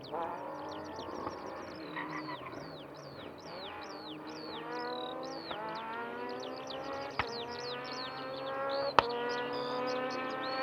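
A rally car's engine is heard approaching, its note climbing steadily in pitch over several seconds, with sharp cracks about seven and nine seconds in, the second one the loudest. High falling chirps of birdsong repeat throughout.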